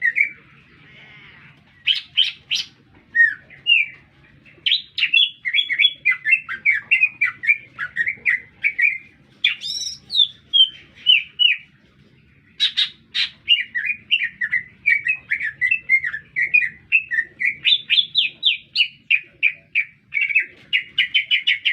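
Green leafbird (cucak ijo) singing vigorously: a fast, varied song of quick chirps and whistled notes, in runs broken by short pauses. It speeds into a rapid run of notes near the end.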